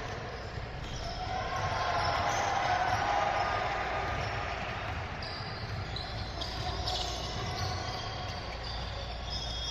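A basketball bouncing on a gym court during a game, over the general noise of play in the hall.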